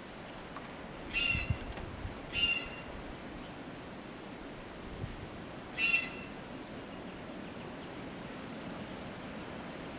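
A bird calling three times, in short pitched calls: about a second in, again a second later, and near six seconds in, over a steady outdoor hush.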